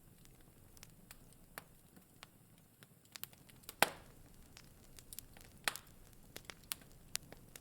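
Wood fire crackling in a fireplace: irregular sharp pops and snaps over a low, soft hiss, with the loudest pop just under four seconds in and another strong one near six seconds.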